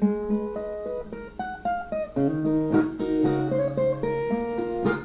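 Brazilian viola playing an instrumental interlude: single plucked notes in short melodic runs, with a strummed chord about three seconds in.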